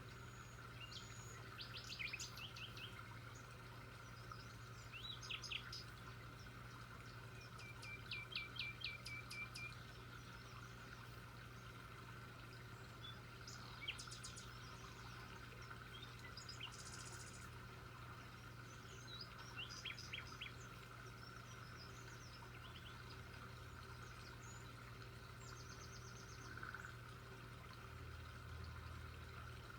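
Birds calling in short, fast trilled phrases every few seconds, over a faint steady hum.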